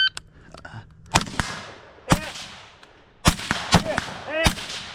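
Shot timer start beep, then about six rifle shots fired by two prone shooters in an irregular string, each with a ringing echo.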